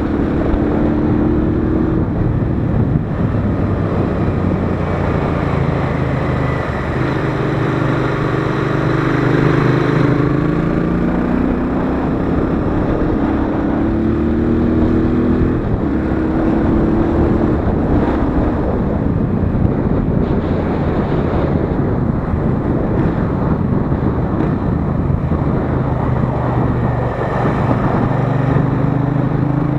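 Royal Enfield Interceptor 650's 648 cc parallel-twin engine under way, its note climbing as it pulls and dropping at each gear change, several times over. Wind rush is heard under it.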